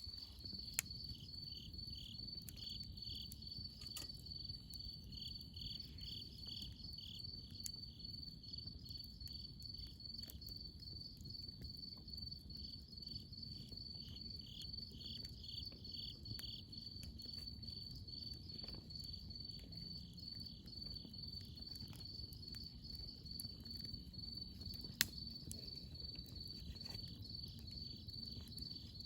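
Crickets chirping in a steady, high, pulsing trill, with a second insect pulsing more slowly at times. A wood campfire gives occasional sharp crackles and pops, the loudest about 25 seconds in.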